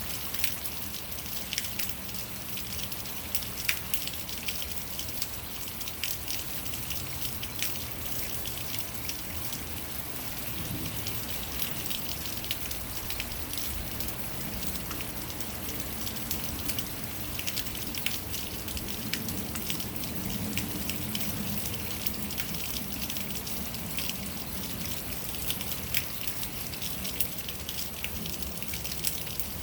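Rainwater running chaotically down a rain chain: a steady splashing patter with many sharp drips and splashes throughout and a faint low gurgle.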